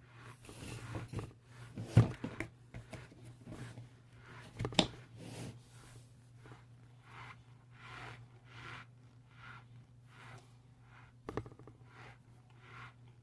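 Close-up chewing of a crunchy, powdery mouthful, in a steady rhythm of about one and a half chews a second, with sharper crunches about two seconds in, about five seconds in and near the end, over a steady low hum.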